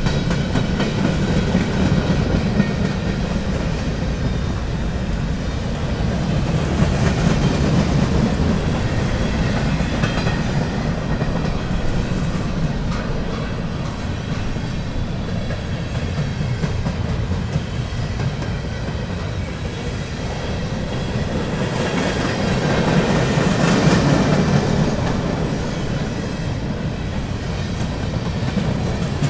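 A BNSF train rolling past, a steady wheel-on-rail rumble from its cars, swelling a little about a quarter of the way in and again about three-quarters of the way through.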